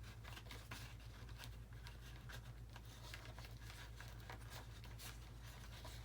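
Faint clicks, scrapes and rustling of hands handling wires and the plastic parts of a model airplane, over a steady low electrical hum.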